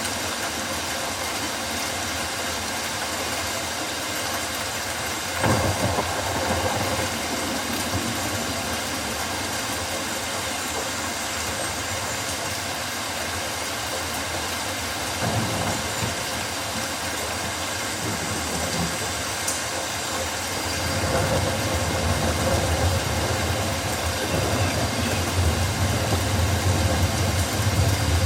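Steady rainforest rain hiss, with a low rumble that comes in suddenly about five seconds in and swells again over the last several seconds.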